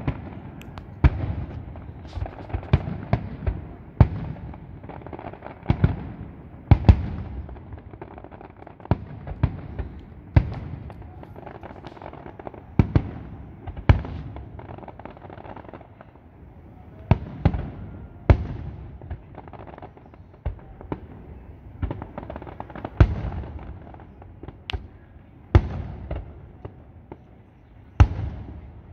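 Aerial fireworks shells bursting in a steady, irregular run of sharp bangs, about one every second or two, with a low rumble between them.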